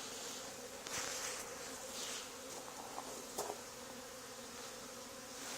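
Honey bee swarm buzzing: a steady, even hum of many bees.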